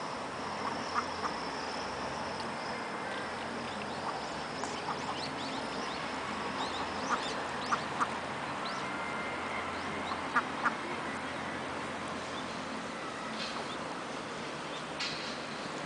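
Ducks quacking in short, scattered calls, several in pairs, over a steady background hum.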